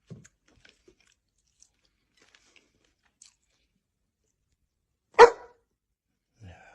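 A dog: faint scattered crunching clicks like chewing for the first few seconds, then a single short sharp bark about five seconds in, and a brief low pitched sound from the dog near the end.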